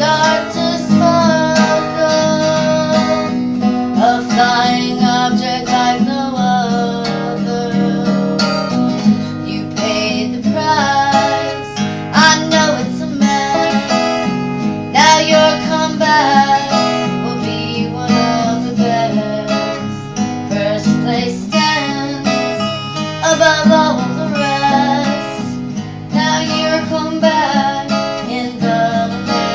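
Live music led by a strummed and picked acoustic guitar.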